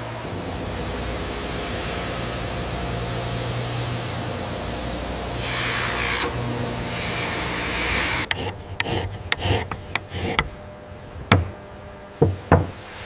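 Work noise: a steady rushing, rasping sound for about eight seconds, then it stops and a run of sharp, irregular knocks and clicks follows, a few of them ringing briefly near the end.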